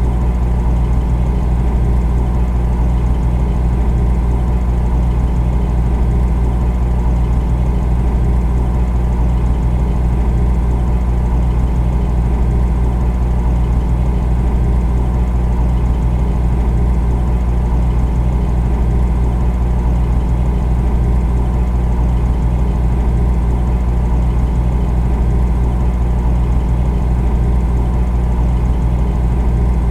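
Refrigerator running: a steady, unchanging hum from the compressor with a fainter hiss above it.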